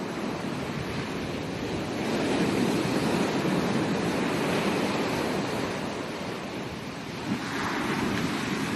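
Ocean surf breaking and washing up a beach, rising and falling in slow swells, with a new wave building near the end.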